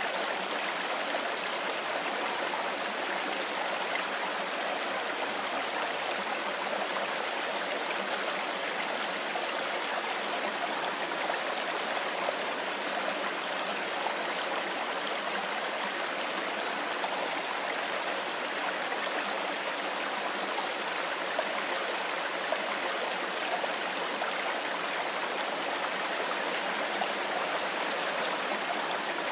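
Mountain river flowing steadily: an even, continuous rush of running water.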